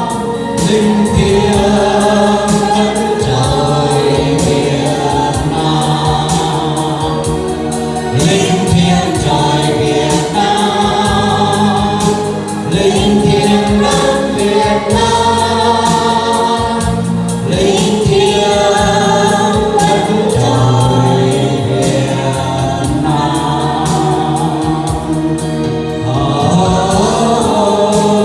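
Choral music: a choir singing slow, long-held chords.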